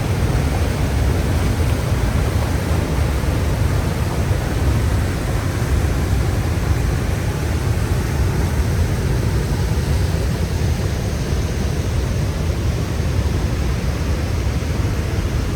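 Steady rushing of a waterfall: an even, unbroken noise that is heaviest in the low end.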